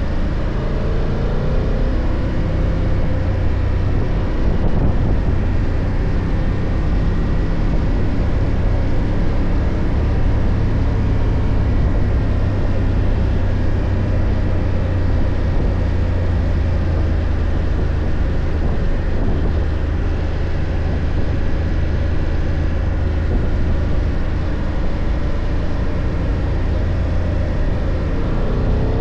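BMW F 800 GS parallel-twin motorcycle engine running steadily under way, with wind and road noise. The engine pitch climbs briefly near the start and again near the end.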